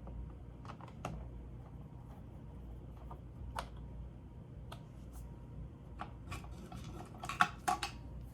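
Light clicks and taps of small parts and screws being handled on an opened laptop's plastic case, scattered, with a quick run of sharper clicks near the end.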